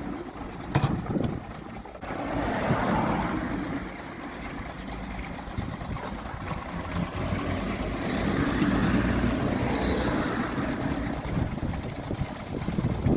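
1937 Wolseley 14/56's engine running at idle, with a few sharp clicks about a second in and two stretches where it swells louder, around two to three seconds in and again near nine seconds.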